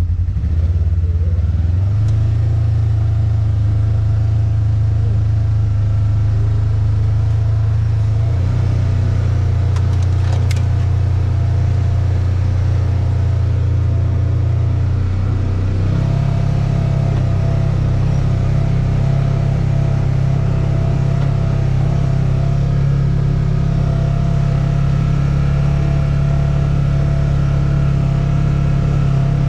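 A motor vehicle's engine running steadily while driving, with a loud low drone that steps up in pitch about two seconds in and again about halfway through.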